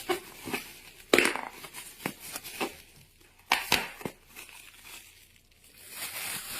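Irregular crinkling and rustling with sharp crackles, loudest about a second in and again about three and a half seconds in.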